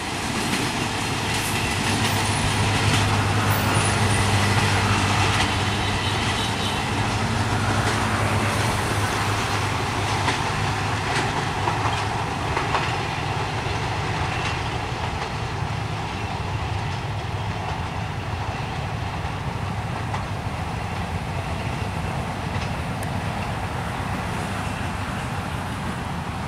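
Old passenger train coaches rolling away along the track, their wheels running on the rails with a low rumble. The sound swells about four seconds in, then slowly fades as the train recedes.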